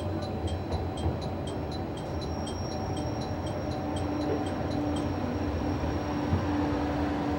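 Noto Railway NT100 diesel railcar running, its engine drone and wheel rumble steady. A rapid high ringing, about three strokes a second, sounds over it and stops about five seconds in.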